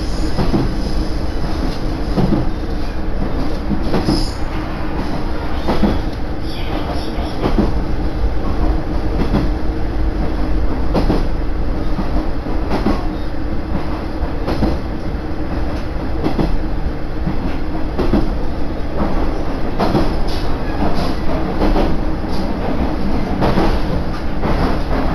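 Koumi Line train running along the track: a steady low rumble and hum, with the wheels clicking over rail joints every second or two.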